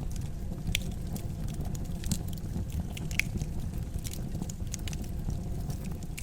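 Wood fire crackling in a fireplace: irregular sharp pops and snaps over a steady low rumble of the flames, with a few louder pops about a second, two seconds and three seconds in.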